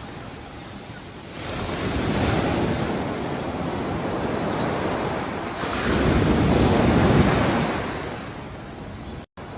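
Ocean waves washing onto the shore: two surges swell and fade away, the second one the loudest. The sound cuts out for an instant near the end.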